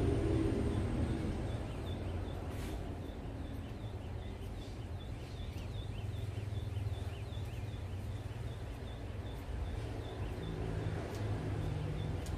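A small bird chirping over and over, two to three short chirps a second, over a steady low background rumble.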